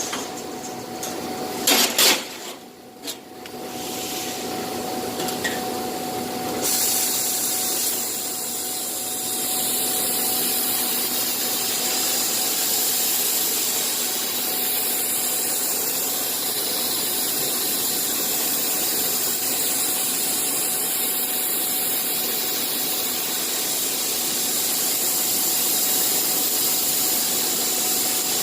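A Bystronic CNC machine: a few sharp clanks at first, then steady machine running noise with a constant whine from about six seconds in.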